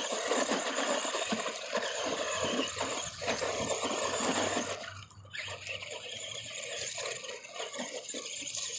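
Arrma Granite Voltage RC monster truck driving over rough, rocky ground: its brushed 540 electric motor whining under throttle, with the tyres crunching and scattering dirt and small stones. It goes briefly quieter about five seconds in.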